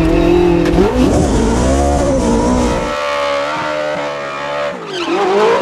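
A car engine revving hard: its pitch climbs about a second in, holds high, then drops briefly near the end and climbs again.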